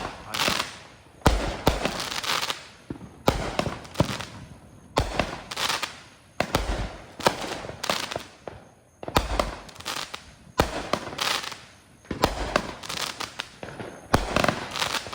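A 200-gram consumer fireworks cake firing shot after shot: sharp bangs about a second apart, some in quick pairs, each followed by a fading hiss.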